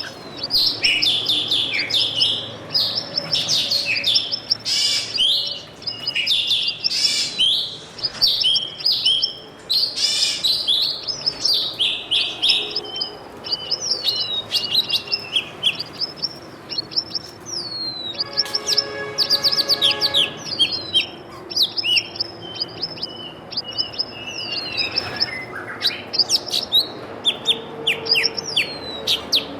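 Small birds chirping and twittering continuously in a dense, overlapping chorus of short, high calls, with a harsher buzzing, rattling call about two-thirds of the way through.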